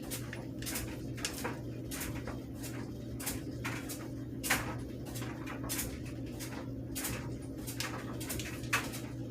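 A steady low hum, with light clicks and crackles scattered irregularly over it, as of items and packaging being handled.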